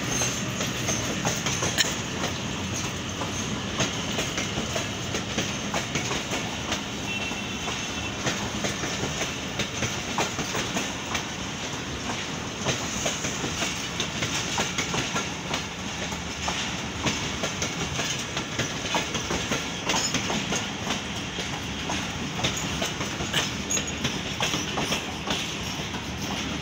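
Passenger train coaches rolling slowly past as the train pulls into the station, with a steady rumble and the steel wheels clicking over rail joints in a quick, irregular run.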